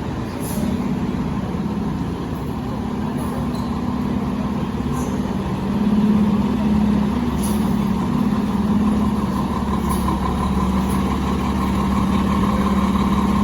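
Fire engine's engine running steadily, growing gradually louder, with a rise about six seconds in.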